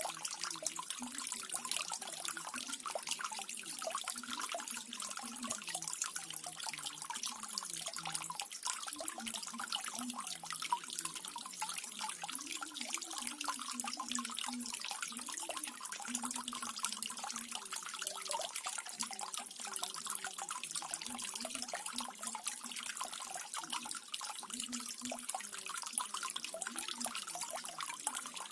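Small garden waterfall running steadily: water trickling and splashing without a break, with a low, wavering gurgle underneath.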